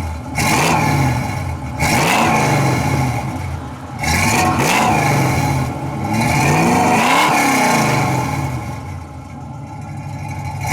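Ford 289 small-block V8 in a 1967 Mustang, breathing through long-tube headers and Flowmaster 40 series mufflers, revved with about four throttle blips that rise and fall. The last rev is held longer, then the engine drops back toward idle near the end.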